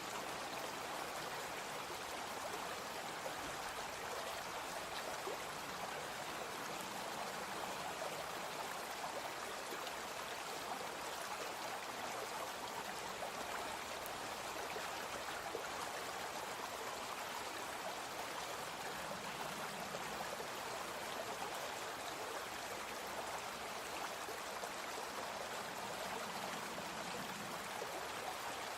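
A small brook flowing steadily, an even, continuous rush of water.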